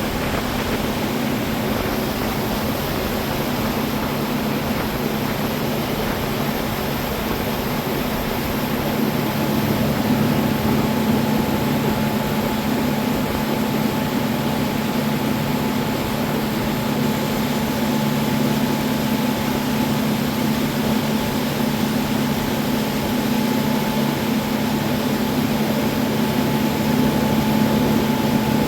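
Boat motor running steadily at a constant pitch, a continuous low hum with a noisy wash over it.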